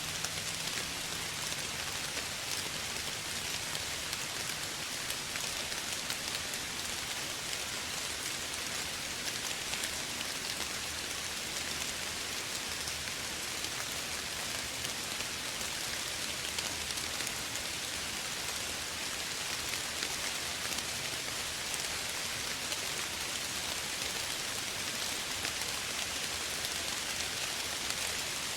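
Steady soft rain falling and pattering on surfaces, a dense even hiss of many small drop impacts.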